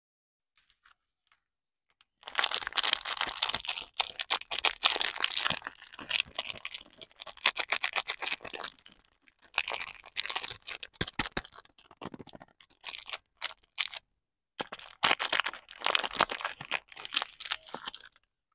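Soap wrapper being torn open and crinkled by hand, in several spells of dense crackling with short pauses between them.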